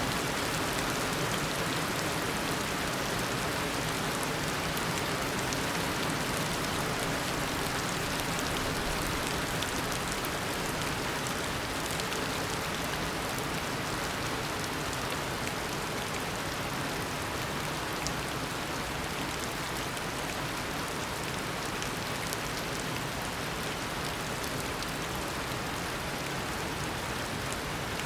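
Heavy tropical rain falling in a steady downpour, a dense even hiss of rain on foliage and surfaces with scattered individual drops.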